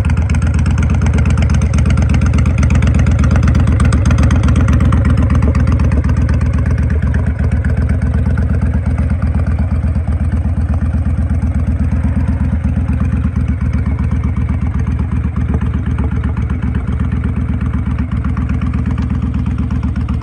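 Honda VTX1300 V-twin motorcycle engine running at a steady idle with an even, rapid exhaust pulse, easing slightly in level after several seconds.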